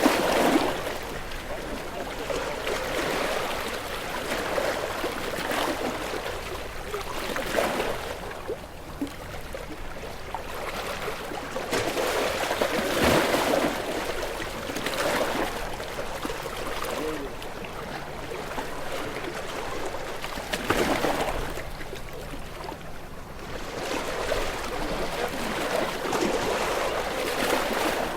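Ocean waves washing in and breaking, a steady rush of water that swells and fades every few seconds.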